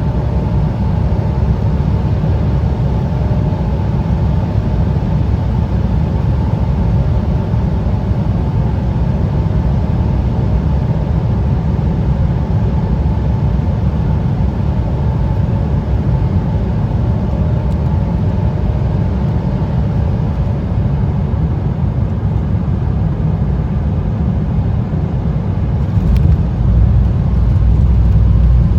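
Embraer 175 cabin sound during landing: a steady deep rumble of the twin GE CF34 turbofans and airflow, with a faint steady whine near 1 kHz. About 26 seconds in there is a brief sharp knock, and the low rumble then grows louder.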